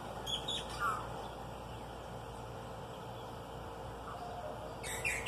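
A small bird giving short, sharp chirps: a quick cluster about half a second in and another just before the end, with a steady hiss behind.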